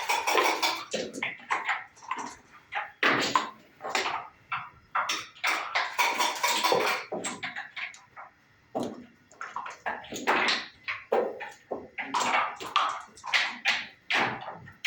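Backgammon play: dice rattled in cups and thrown onto the board, with checkers clacked down between rolls, a dense run of sharp clicks and clatters.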